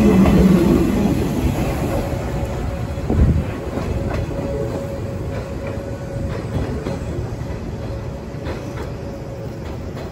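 A 485-series electric multiple unit pulling away along the track, running noise fading as it draws off, with a few clicks of wheels over rail joints.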